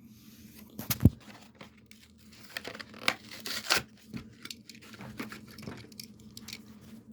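Hot Wheels blister pack being torn open by hand: cardboard card tearing and the plastic blister crinkling, with a sharp crack about a second in.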